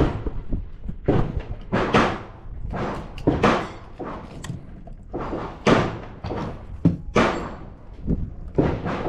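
Handgun gunshots at an outdoor range: a string of sharp cracks at irregular intervals, each with a short echo, several coming close together in the middle.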